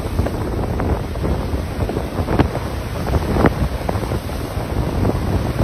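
Strong blizzard wind buffeting the microphone, a dense gusty rumble with scattered short sharp ticks through it.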